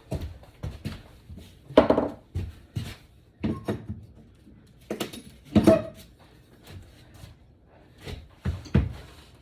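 Irregular knocks and thuds of wooden flooring being worked loose as a cut section of floor is pulled out, loudest about two seconds in and again about five and a half seconds in.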